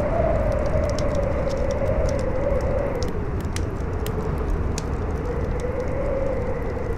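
Strong wind howling with a slowly wavering pitch, over a campfire's steady crackle and scattered sharp pops.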